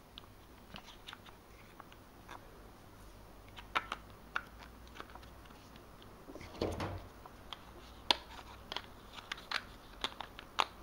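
Scattered light clicks and taps of a small action camera and its packaging being handled and put back into the box, with one duller knock about seven seconds in.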